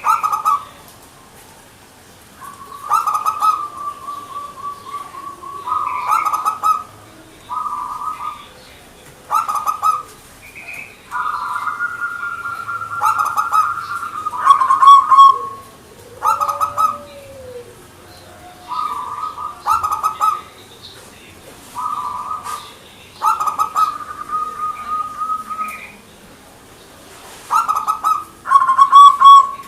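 Zebra dove (perkutut) singing its cooing song: a long series of short, rolling coos at one pitch, coming every second or two, with a few notes drawn out into longer trilled coos lasting several seconds.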